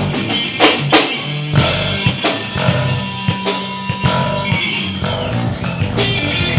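Live rock band playing an instrumental stretch: drum kit with two heavy hits in the first second, over electric guitar and bass.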